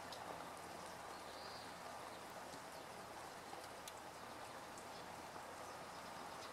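Faint, steady outdoor background hiss with scattered light ticks and one brief high note about a second and a half in.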